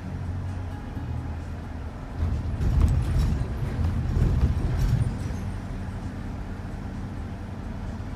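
Shuttle van driving, heard from inside the cabin: a steady low engine and road hum. It swells and grows rougher for about three seconds in the middle, with a few light knocks.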